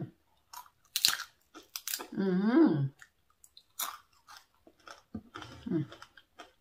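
A person chewing and biting fried squid, with scattered crisp crunches and mouth sounds. Twice a voice sounds with her mouth full, rising and falling in pitch: loudly about two seconds in, and more faintly near the end.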